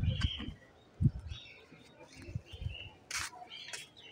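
Small birds chirping in short bursts in the background, with low bumps on the phone microphone near the start and about a second in, and a brief loud rustle about three seconds in.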